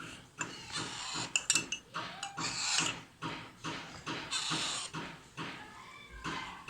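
Alexandrine parrot chicks begging to be fed, with repeated harsh, rasping calls in quick bursts.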